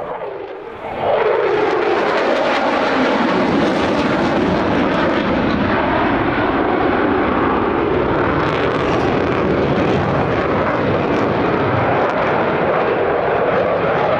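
Mitsubishi F-2B fighter's single F110 turbofan on a fast low pass: a falling pitch as it goes by, then loud, steady jet noise from about a second in.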